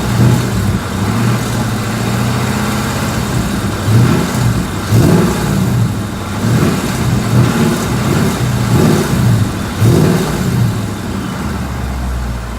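Ford Mustang GT's 5.0 Coyote V8 with stock exhaust, idling and then revved in a series of short throttle blips, each dropping back toward idle. The owner hears a faint tick on the falling revs as the engine recovers, a sign he takes for a recurring engine fault.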